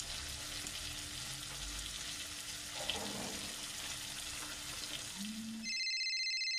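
Chopped tomatoes, onion and cashew nuts sizzling in butter in a pan. Near the end it cuts abruptly to a steady electronic phone ringtone.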